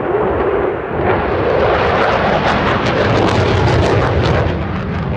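Fighter jet flying past, its engine noise building to a loud peak with a ragged crackle and a deep rumble midway, then easing off.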